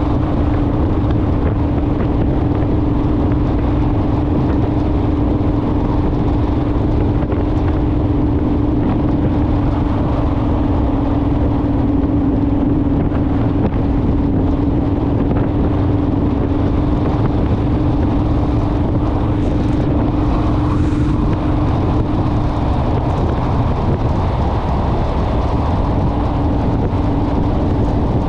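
Honda Rebel motorcycle running at a steady cruise, its engine note holding over heavy wind and road rumble. The engine note dips slightly a little past twenty seconds in.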